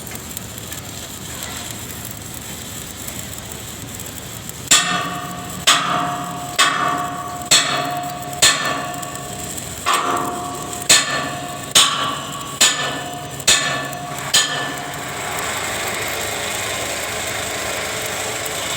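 Hammer striking metal, about eleven ringing blows roughly a second apart, followed by a steady hiss.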